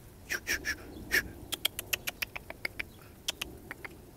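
Koi flopping on wet ground: a run of short sharp slaps, quickening to about eight a second in the middle.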